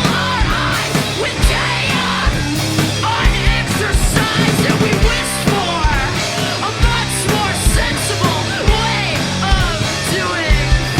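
Live rock band playing a loud, driving song on drums, electric guitars and bass, the drums hitting at a steady beat.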